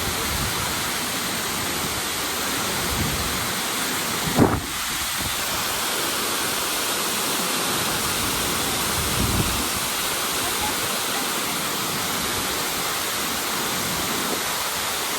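Tortum Waterfall's water falling and crashing, a steady dense rush. There is a brief low thump about four and a half seconds in and a softer one about nine seconds in.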